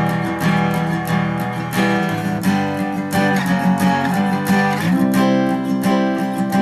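Acoustic guitar strummed in a steady, quick rhythm on barre chords, the chord changing a few times as the shape is shifted along the neck.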